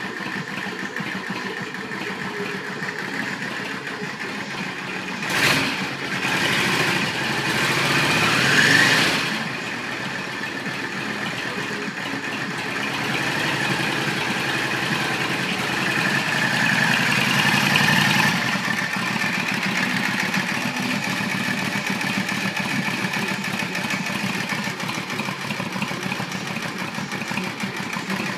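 Yamaha XVS 650 Classic's air-cooled V-twin engine idling, blipped once about five seconds in, then revved up in a rising sweep for a few seconds before dropping back to idle. The revs rise again more gently a few seconds later and hold until about eighteen seconds in, then settle to a steady idle.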